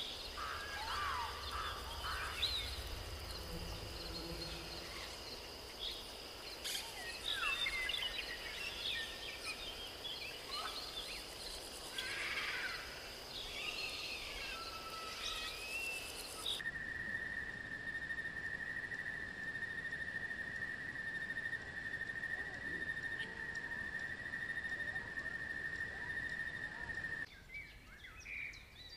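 Outdoor ambience of birds chirping over a steady high whine. About two-thirds of the way through, the sound cuts to a single steady high tone with few chirps, and near the end it cuts again to a fresh run of chirps.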